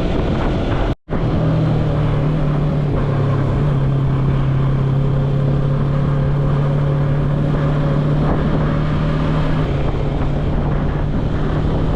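Yamaha MT-03 motorcycle engine running steadily at low road speed. The sound cuts out for a split second about a second in, then carries on unchanged.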